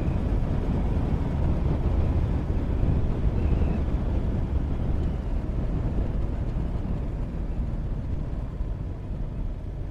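Motorcycle riding at road speed, heard from an onboard microphone: a steady low rumble of engine and road noise that eases off a little near the end.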